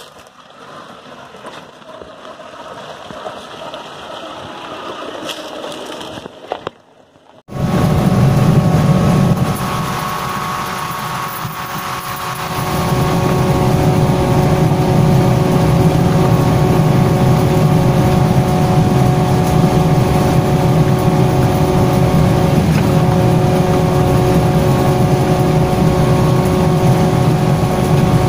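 Maruti Suzuki Gypsy 4x4's engine: at first heard from outside, growing louder as it comes down a dirt track; then, after a sudden cut, a loud steady engine drone inside the cabin while driving at speed, easing off briefly and then rising again.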